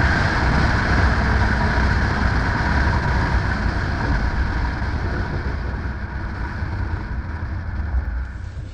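2011 Ford Mustang V6 slowing down after a quarter-mile acceleration run: steady wind and road noise with a low engine rumble, fading gradually as the car loses speed.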